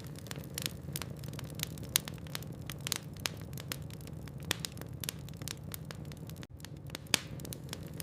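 Logs burning in a fireplace: a steady low rumble of flame with irregular crackles and sharp pops, the loudest about two seconds in and about seven seconds in. A split-second gap in the sound comes about six and a half seconds in.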